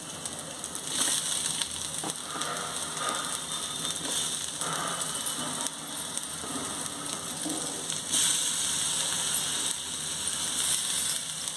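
Chopped tomatoes, onions and green chillies sizzling and crackling in hot oil in a frying pan. The sizzle swells about a second in and again near eight seconds.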